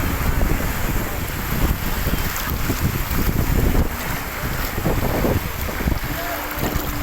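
Wind buffeting the microphone: a loud, irregular rumble.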